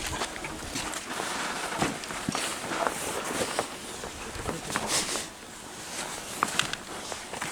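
Irregular footsteps and scuffing, with scattered knocks and clatters, as an IZh motorcycle is pushed out by hand.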